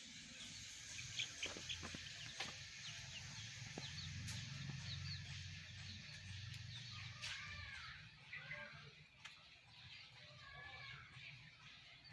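Birds calling repeatedly from about seven seconds in, each call a short arched chirp. Before that come a few sharp clicks in the first couple of seconds.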